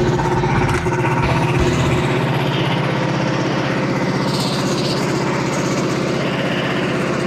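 Small gasoline engine of a portable bandsaw sawmill running steadily.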